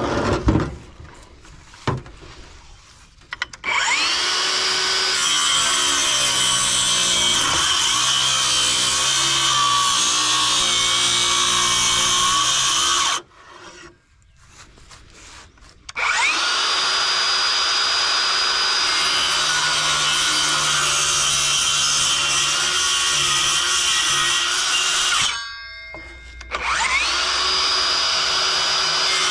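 Handheld electric power tool running in three long runs. Each time its motor winds up to a steady whine and holds for several seconds. It stops briefly between runs, and the third run starts near the end.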